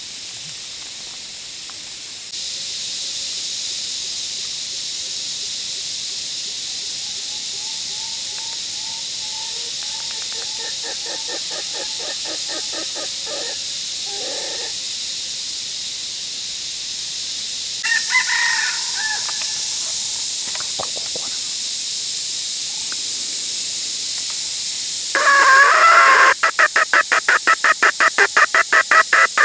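Wild jungle rooster (junglefowl) crowing, over a steady high hiss. A louder, rapidly pulsing call starts near the end.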